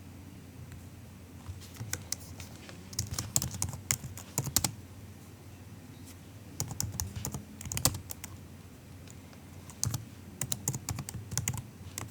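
MacBook keyboard being typed on softly, in three short runs of rapid keystrokes with pauses of a second or two between them.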